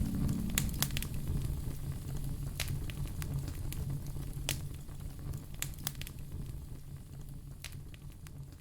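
Wood fire in a fireplace crackling, with scattered sharp pops over a low steady rumble, gradually fading.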